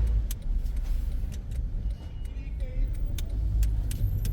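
Car driving, heard from inside the cabin: a steady low rumble of engine and road noise with scattered light clicks.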